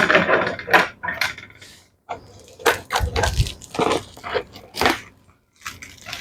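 Plastic packaging wrap crinkling and tearing in irregular bursts as it is cut and pulled off a cardboard box, with a dull knock about three seconds in.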